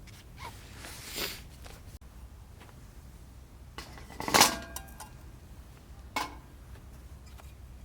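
Camp cookware and utensils being handled: a few scattered clinks and knocks, the loudest about four seconds in with a brief metallic ring.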